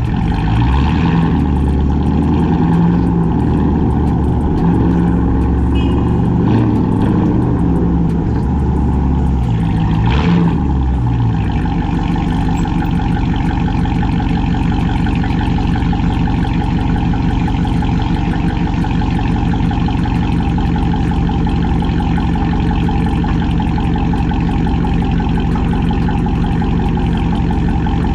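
Straight-piped, catless Chrysler 300C Hemi V8 with an aftermarket cam, its exhaust rising and falling in pitch through the first ten seconds or so as it is driven, then holding a steady low rumble.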